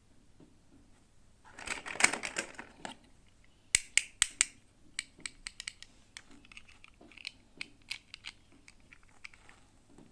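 Packaging rustling and crinkling for about a second, then a quick run of sharp clicks followed by lighter scattered taps and ticks as a miniature toy's packaging is opened and handled.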